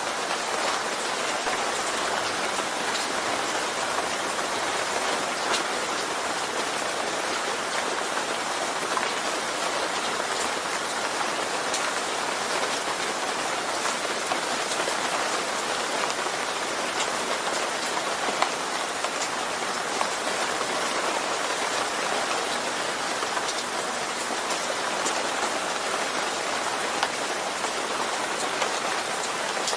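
Steady rain falling on a surface, a dense even patter with scattered individual drop ticks.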